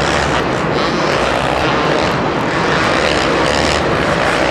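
Two-stroke supercross motorcycles running hard around the track, their engines buzzing and revving up and down without a break.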